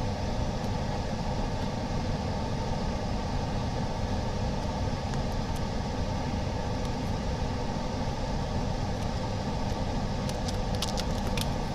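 Steady mechanical hum of running workshop equipment, with a few light clicks of handling near the end.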